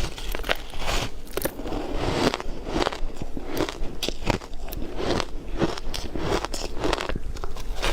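Ice being bitten and chewed close to the microphone: a rapid, irregular run of sharp crunches and crackles as the cubes break between the teeth.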